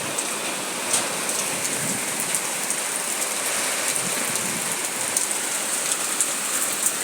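Heavy rain pouring steadily, with scattered sharp ticks of drops striking hard surfaces.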